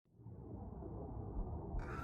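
Deep-sea underwater ambience fading in from silence as a steady low rumble. Just before the end a higher steady tone and a hiss join it.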